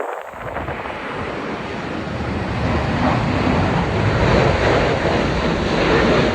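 Jet airliner passing low, its engine noise building steadily over several seconds, under heavy wind buffeting on the microphone.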